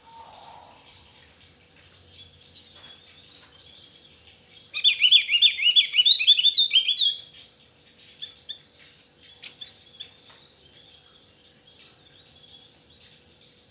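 Javan grey-throated white-eye (Opior Jawa) singing: about five seconds in comes a loud, fast run of short rising notes, roughly six a second, lasting about two and a half seconds. Faint, scattered chirps come before and after it.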